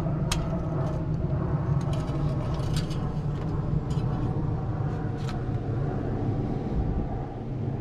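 Fox-body Mustang engine idling steadily after a fresh oil change, with light sharp clicks over the first few seconds.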